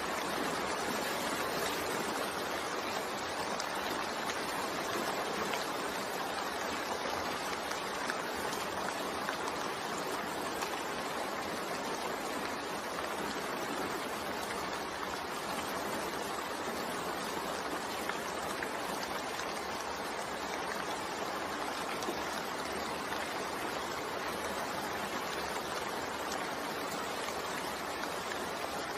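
Steady rain falling, an even unbroken hiss of water with no distinct drops or other events.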